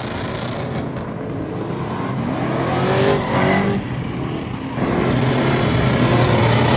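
Truck engine revving hard under acceleration, its pitch climbing, then a short lull about four seconds in before it runs loud again.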